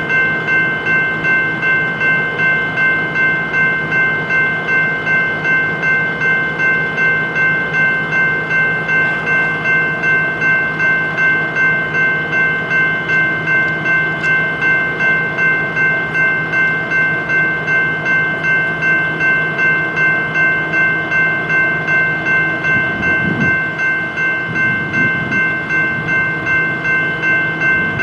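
Railroad grade-crossing bell ringing steadily at about two strikes a second, over a low steady hum.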